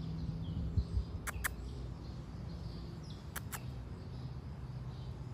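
Birds chirping faintly in the trees, with pairs of sharp clicks about every two seconds.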